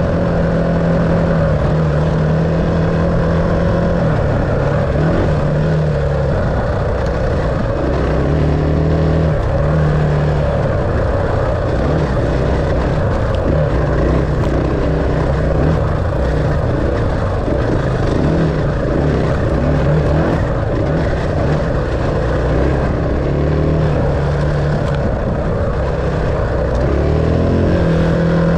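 Dirt bike engine running under load on a trail ride, its pitch rising and falling as the throttle opens and closes.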